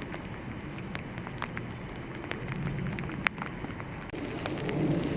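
Steady rain, with many scattered sharp drop hits ticking close by; the loudest hit comes about three seconds in.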